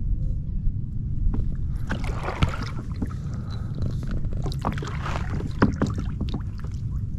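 Kayak paddling: two spells of paddle splashing and dripping, about two and about five seconds in, with a few sharp knocks, over a steady low rumble.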